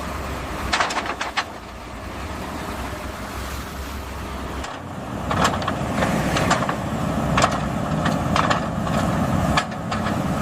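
Heavy road-construction machinery running steadily, with sharp clanks and knocks: a cluster about a second in, then more through the second half. The low engine rumble changes about four and a half seconds in and grows fuller.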